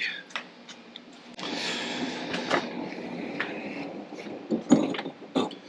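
A metal strut tower brace being handled and test-fitted against the car's body: a scraping, sliding sound for a couple of seconds, then a few light knocks and clicks near the end.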